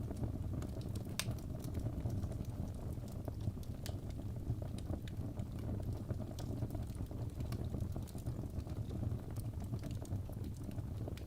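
Wood fire burning in a fireplace: a steady low rumble with scattered crackles and pops, one sharper pop about a second in.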